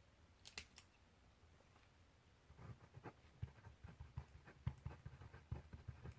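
Faint pencil writing on paper: a few sharp clicks about half a second in, a short pause, then quick irregular strokes and taps of the pencil from about two and a half seconds on.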